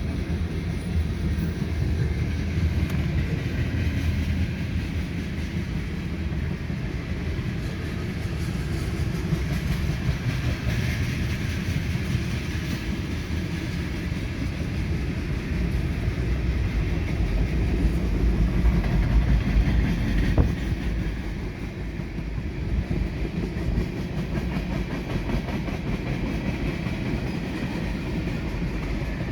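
Freight train cars rolling past: a steady low rumble with the wheels clattering over the rails, and one sharp clank about two-thirds of the way through.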